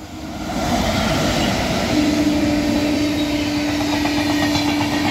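Train of LHB parcel vans passing at speed: the rush of wheels on rail swells to full loudness within the first second and stays steady, with a steady tone joining about two seconds in.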